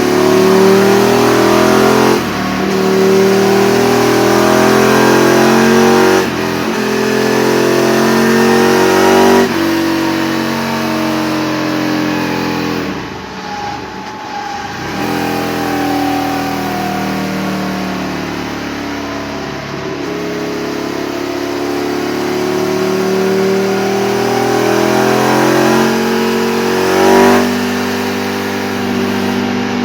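Aprilia RSV 1000 R Tuono's V-twin engine, breathing through an aftermarket Leovince exhaust, being run hard on a dyno. The revs climb and drop back sharply three times in the first ten seconds, as with upshifts, then fall away, then climb in one long slow pull before dropping to a lower steady speed near the end.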